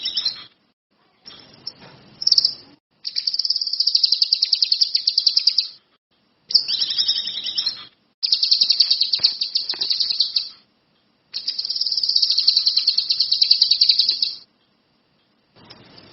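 A songbird singing in fast, high-pitched trills, delivered in phrases of two to three seconds with short breaks between them.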